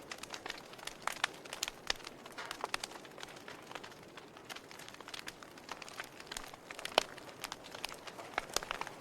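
Campfire crackling: irregular sharp pops and snaps of burning wood over a soft hiss, with one louder pop about seven seconds in.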